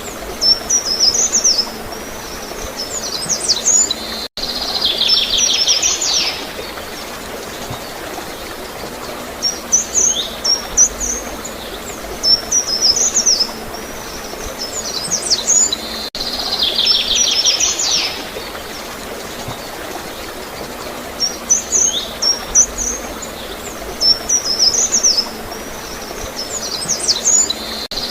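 Songbird chirps and a fast high trill over a steady background of gurgling water. The same sequence of song phrases repeats about every twelve seconds, with a brief dropout each time it starts over.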